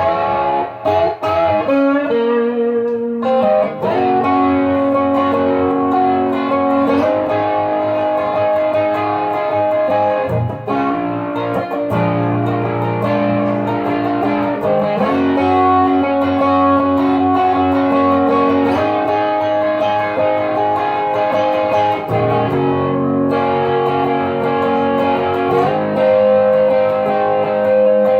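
Wolf KSA-50 electric guitar on its neck pickup, overdriven through an Ibanez TS9 pedal into a Boss Katana 50 amp. Quick single notes for the first few seconds, then held chords that change every second or two.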